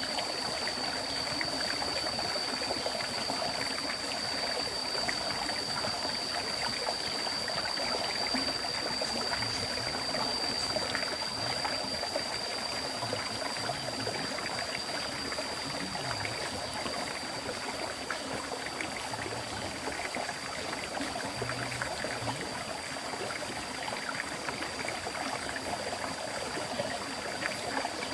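River stream flowing: a steady rush of moving water with light trickling. A thin, constant high-pitched tone sits above the water sound.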